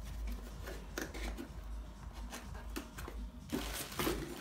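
Packaging and accessory parts being handled: intermittent rustling with light clicks and knocks over a low steady rumble.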